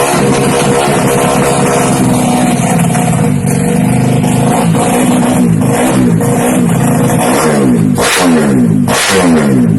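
Drag-tuned Yamaha Jupiter Z four-stroke single-cylinder engine through an aftermarket exhaust, loud, held at high revs and then blipped repeatedly about once a second from about halfway, each rev dropping away in pitch.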